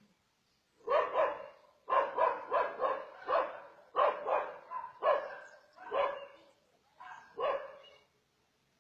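A dog barking repeatedly: short barks in quick clusters, starting about a second in and stopping shortly before the end.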